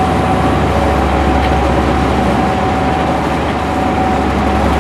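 Passenger train running along the line, heard inside the driver's cab: a steady running rumble with a constant hum over it.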